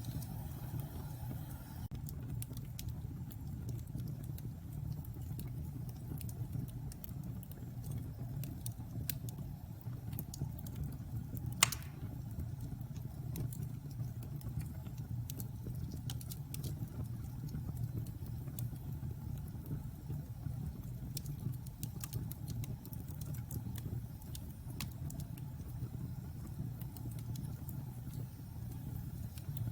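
Wood fire burning in a fireplace: a steady low rumble of flames with scattered crackles and small pops, and one sharp, louder pop about twelve seconds in.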